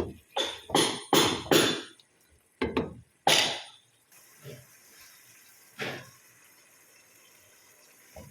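Liquid splashing and sloshing as it is worked by hand, in short strokes: about five quick ones in the first two seconds, then a few more spaced out.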